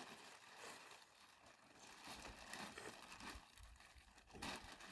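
Near silence, with a few faint soft rustles and a faint low rumble.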